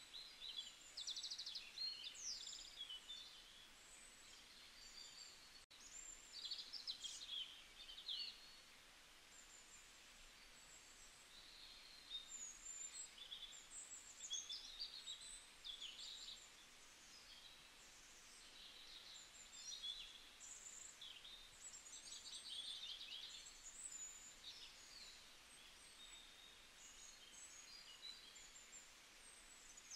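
Faint birdsong: many short chirps, rapid trills and sliding whistles from small birds, in busier spells with quieter gaps between.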